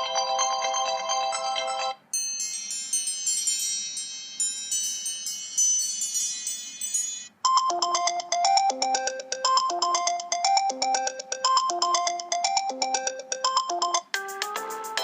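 A run of iPhone iOS 7 ringtones, each a short electronic melody cut off abruptly for the next. The first ends about two seconds in. A high, bright chiming tone follows until about seven seconds in, then a lower tune of mallet-like notes repeating about once a second, and a new ringtone starts near the end.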